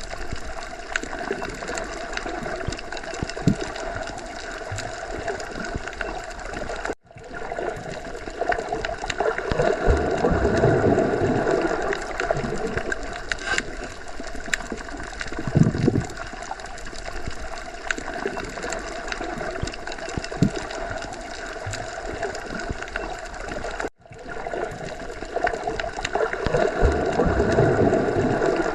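Underwater sea ambience: a steady, muffled wash of water with slow swells and low bubbling and gurgling pops. The sound cuts out briefly twice, about 7 seconds and 24 seconds in.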